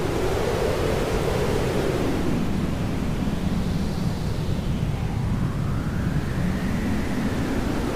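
Hair dryer running steadily: an even rushing noise, heaviest in the low and middle range, with its tone slowly sweeping up and down every few seconds.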